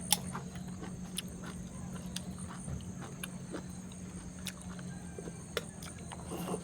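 Close-up eating sounds: chewing with scattered sharp mouth clicks, the loudest just after the start and another about five and a half seconds in, over a steady low hum.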